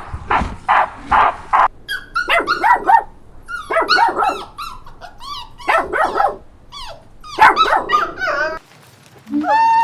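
A dog barking and yelping in short, high-pitched calls that drop in pitch. For the first couple of seconds a different, rhythmic rasping sound is heard instead.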